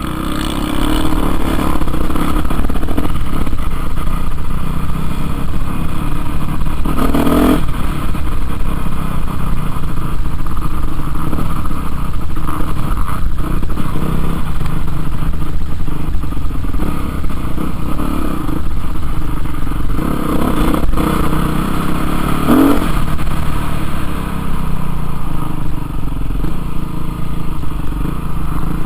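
Motocross bike engine running hard and revving, loud and continuous, with two brief louder surges about seven and twenty-three seconds in.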